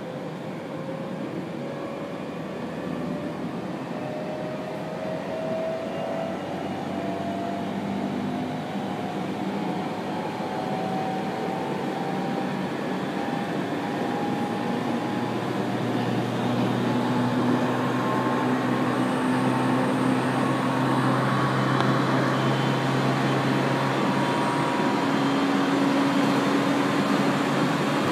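701-series electric train heard from inside the carriage, running with steady rolling noise. A motor whine rises slowly in pitch and the noise grows gradually louder as the train gathers speed.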